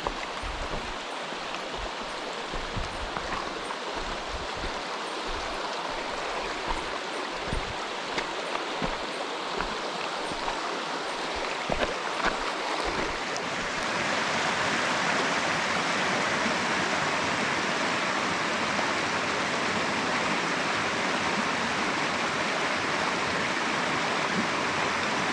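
Mountain stream rushing over rocks in a steady, even rush. About 14 seconds in the water sound becomes louder and steadier. Irregular low thumps come before that change.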